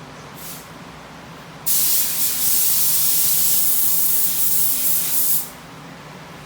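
Paint spray gun spraying clear coat: a short puff of air, then a steady spray hiss lasting about four seconds that cuts off sharply.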